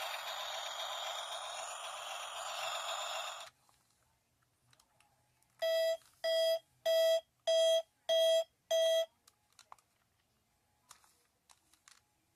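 A steady hissing buzz cuts off suddenly about three and a half seconds in. Then come six evenly spaced electronic beeps, each about a third of a second long, all on one pitch.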